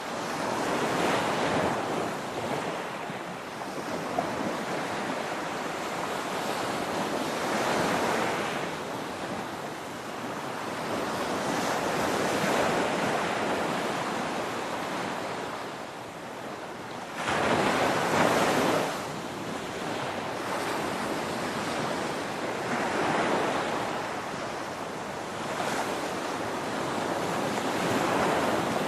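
Ocean surf: waves breaking and washing in a continuous wash that swells and ebbs every few seconds, with one louder wave breaking about two-thirds of the way through.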